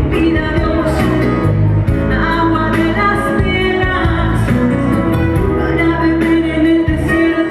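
Live pop-rock band music with a steady beat, with a singing voice over it in parts.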